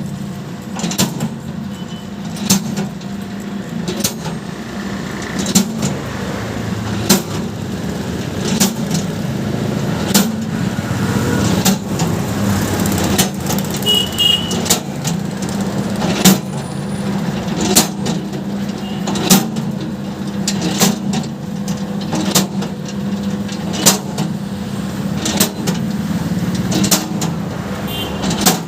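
Construction machine running steadily with a low hum, with a sharp clank about every second and a half.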